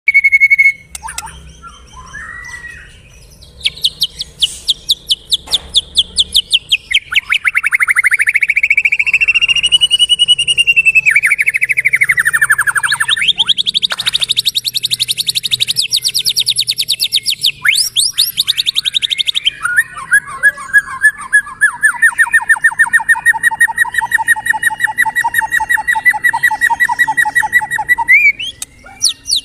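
White-rumped shama (murai batu) singing vigorously: long, fast trills of repeated notes that sweep up and down in pitch, one phrase running into the next.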